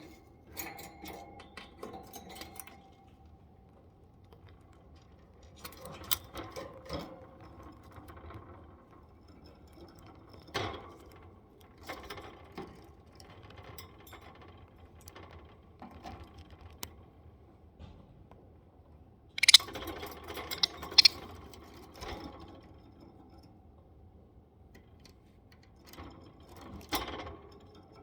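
Budgie pecking and nibbling at a camera: irregular beak taps, clicks and scratchy rustles, with a burst of louder sharp clicks about two-thirds of the way through.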